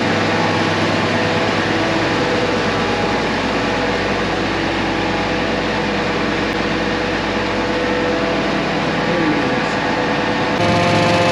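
International Harvester 1460 Axial-Flow combine engine running steadily, left to warm up just after a cold start. Shortly before the end the sound changes suddenly to a louder, steadier hum.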